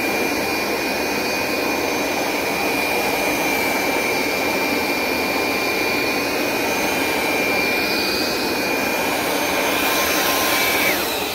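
Hoover SmartWash Pet Complete carpet cleaner running steadily with a high whine from its suction motor, then switched off near the end, its motor winding down in falling pitch.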